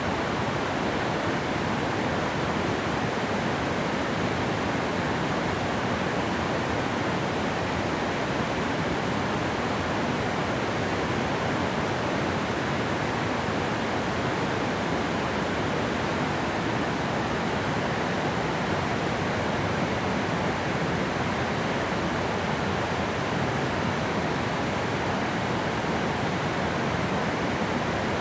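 Steady, even rushing of water flowing at a dam, constant throughout with no breaks.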